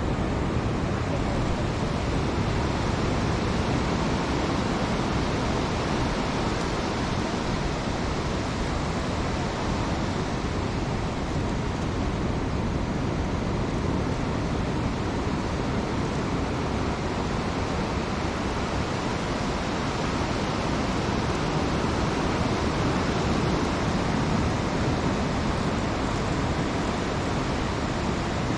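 Steady rushing noise of ocean surf breaking on a sandy beach, even in level throughout.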